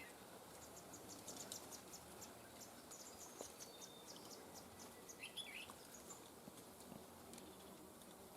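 Faint bird calls outdoors: two short curved calls, one at the start and another about five seconds in, with a scatter of quick high chirps between about one and four seconds in.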